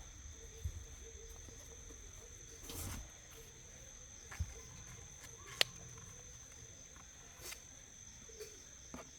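Faint, steady high-pitched trill of insects, with a few soft knocks and one sharp click about halfway through.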